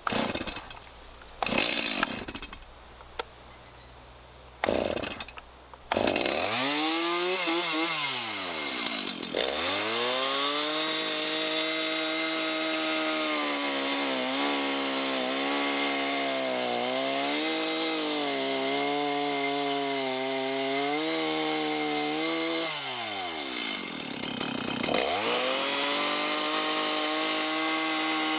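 Two-stroke chainsaw: a few short noisy bursts, then the saw starts about six seconds in and revs up, dropping briefly about three seconds later and again near the end. Between the dips it runs at high revs with a slight waver, cutting joinery into a large timber.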